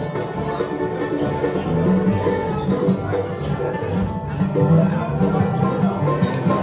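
Bluegrass band playing an instrumental break with no singing, plucked string instruments carrying the tune over a steady bass and rhythm.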